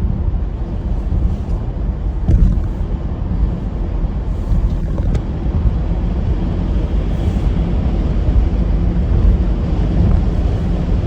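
Storm wind buffeting the microphone: a loud, continuous low rumble that surges and eases without stopping.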